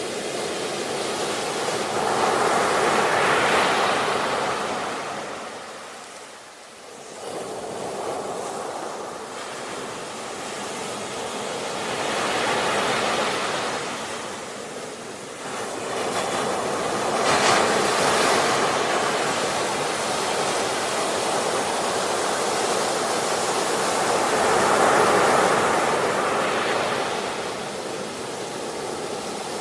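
Ocean waves breaking and washing onto the shore in four slow surges, each swelling and then fading, with a brief lull about six seconds in.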